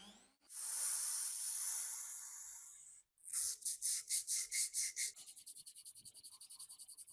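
Abrasive rubbing on metal: a steady hiss that stops abruptly, then rhythmic scraping strokes, about four a second at first and from about two-thirds of the way in faster, about seven a second.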